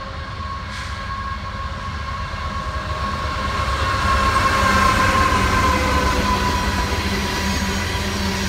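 Canadian Pacific diesel freight locomotive approaching and passing at speed. A steady deep rumble and a whine grow louder to a peak about five seconds in, and the whine drops slightly in pitch as the locomotive goes by. Loaded tank cars follow, rolling on the rails.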